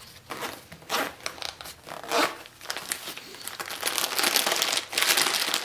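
Zipper of a soft fabric motorcycle tail bag being pulled open, with the bag's fabric crinkling: several short scratchy strokes, then a longer, louder rustle near the end.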